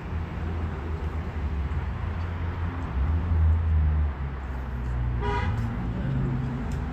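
Low rumble of road traffic, swelling about three seconds in as a vehicle passes, with one short car-horn toot about five seconds in.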